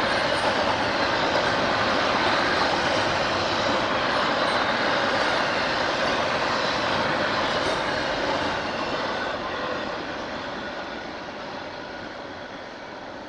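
A passing train's wheels rolling on the rails, a steady rushing noise that starts to fade about eight seconds in as the train moves away.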